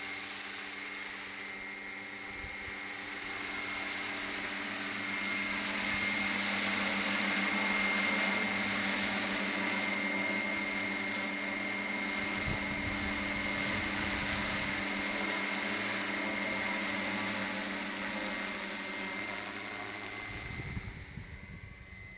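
700-size RC scale helicopter with an MD500E body flying, its rotor and drive giving a steady high whine over a low hum. It grows louder toward the middle, then fades in the last few seconds as it moves away.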